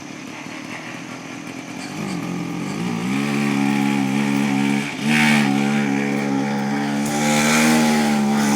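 Mini bike engine running, its revs climbing about two seconds in and then holding steady, with a brief drop near the middle before it picks up again.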